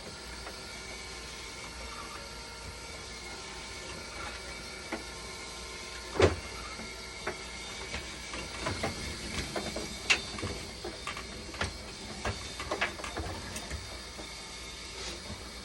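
Steady hum of a running dialysis machine with its cooling fan, several steady tones in it. Over it come scattered clicks and knocks of handling: one loudest knock about six seconds in, then a run of lighter clicks.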